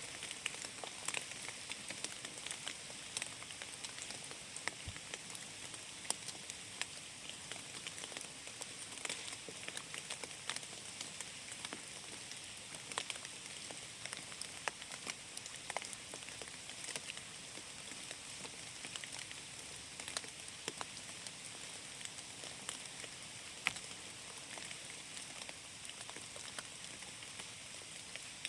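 Steady rain falling in a forest: an even hiss with many separate sharp drip ticks scattered through it.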